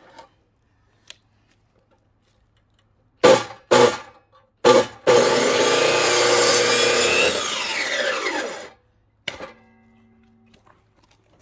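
Three sharp knocks, then a chainsaw cuts into a firewood log for about three and a half seconds and winds down with falling pitch as the cut ends.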